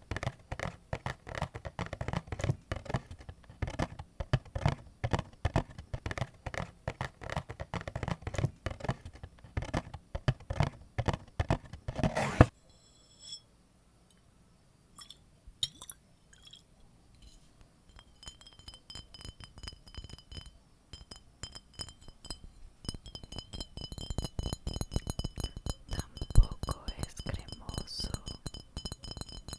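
Rapid close-up tapping and clicking on objects, ending in a sharp knock about twelve seconds in, then a short lull. After that come lighter taps and clinks with a steady ringing tone above them, like glass.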